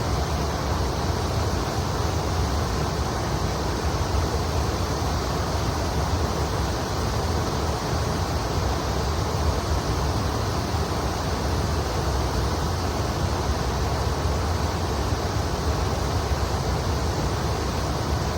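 River water flowing, a steady rushing with a deep low rumble underneath.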